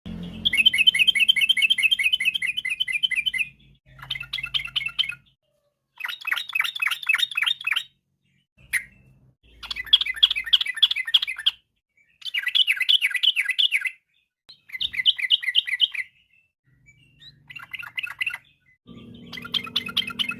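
Yellow-vented bulbul singing: a string of rapid, bubbling phrases of quickly repeated notes, each phrase one to three seconds long, with short pauses between them.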